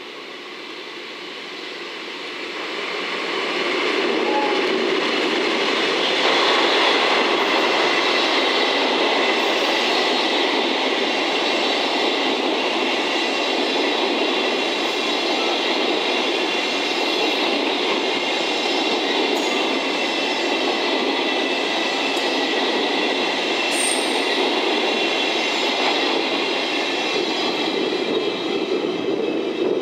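A DD51 diesel-hydraulic locomotive's works train of loaded Chiki rail-carrying flat wagons rolling past close by. The sound builds over the first few seconds, then holds as a steady rumble of wheels on track, with a high wheel squeal held under it.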